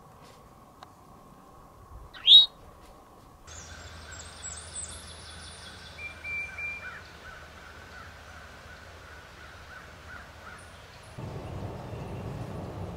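One loud, sharp call rising in pitch about two seconds in from an eastern towhee foraging on the ground. Then other birds sing with high, quick trills and a short whistled note, and near the end a steady low hiss takes over.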